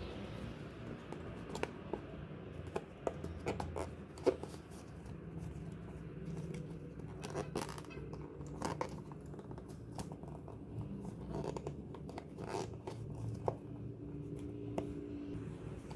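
Hands handling stationery and packaging: scattered small clicks, taps and scrapes, with a steady low hum underneath.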